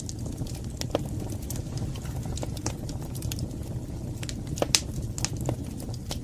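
Wood fire burning in a fireplace: a steady low roar of flames with scattered sharp crackles and pops, the loudest pop a little before five seconds in.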